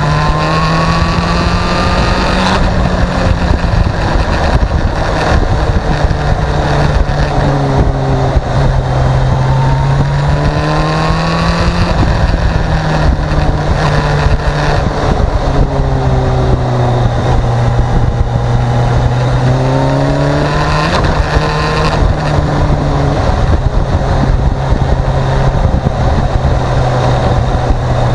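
Motorcycle engine running while riding, its pitch rising as it accelerates three times and falling back between, over a steady loud rushing of wind and road noise.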